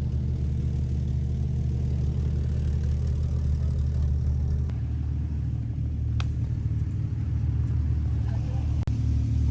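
Jeep engine running steadily as the vehicle drives a trail, a low drone that shifts pitch about five seconds in. There are two faint clicks later on.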